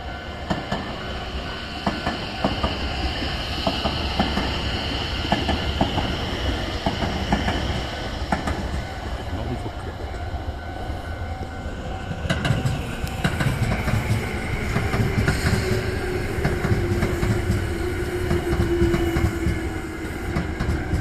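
Tobu 10030 series electric train running in over jointed rail, its wheels clacking, slowing to arrive. In the second half a whine slowly falls in pitch as it brakes.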